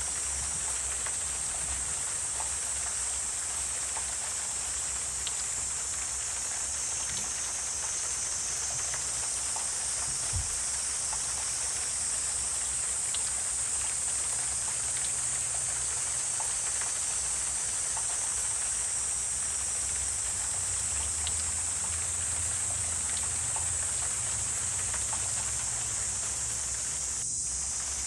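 Wetland ambience: a steady, high-pitched insect chorus, with scattered faint clicks and a low rumble beneath.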